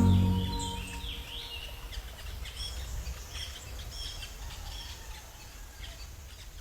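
Music fading out in the first second, giving way to an outdoor natural ambience of birds chirping and calling over a steady hiss, the whole slowly fading.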